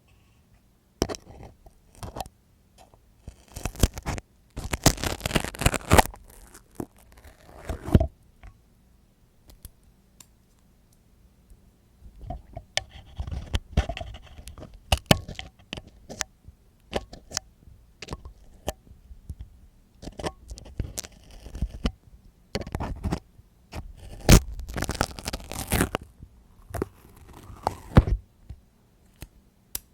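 Close-miked ASMR ear cleaning: scraping, crackling and clicking rubbed right against the microphone, coming in irregular bursts with short pauses between.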